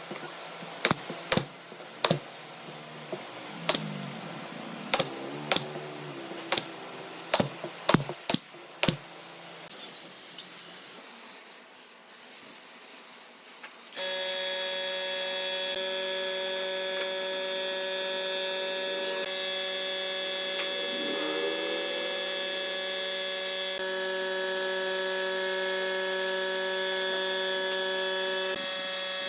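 A string of sharp, irregular knocks in the workshop, a dozen or so in the first nine seconds. About fourteen seconds in, steady background music of long held electronic tones takes over.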